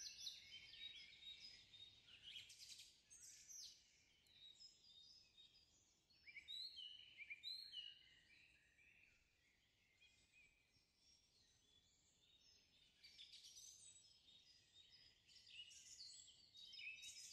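Faint birdsong: several small birds chirping and twittering in short high calls and quick sweeps, sparser in the middle.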